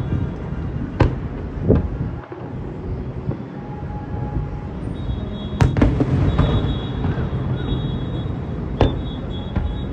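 Fireworks display: sharp bangs of shells bursting over a continuous low rumble and crackle from many bursts. The loudest bang comes a little past halfway, with single sharp cracks about a second in and again near the end.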